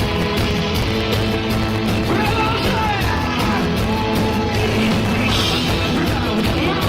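Rock band playing live, with drums, bass and guitars at a steady pulse. A wavering, bending lead line rides over the top from about two seconds in.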